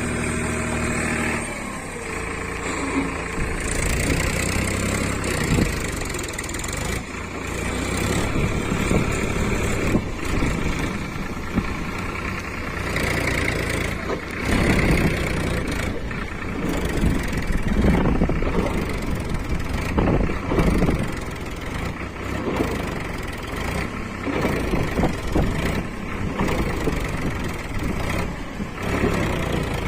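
Powertrac 434 Plus tractor's three-cylinder diesel engine running under load while pulling a loaded dumper trolley. It starts on a steady note, then about a second and a half in turns rougher and uneven for the rest of the time.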